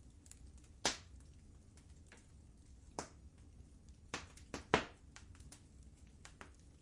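Fireplace fire crackling: a sharp pop about a second in, another near three seconds, then a quick run of three or four pops a little later, the last of them the loudest, over a low steady rumble of the flames.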